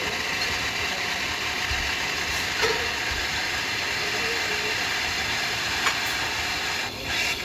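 Franke A400 coffee machine running: a steady mechanical whir and hiss, with a sharp click about two and a half seconds in, another near six seconds, and a brief dip and burst near the end.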